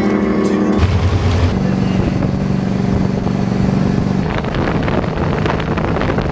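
Motorboat engine running steadily while under way. From about four seconds in, wind on the microphone and rushing noise grow over the engine's tone.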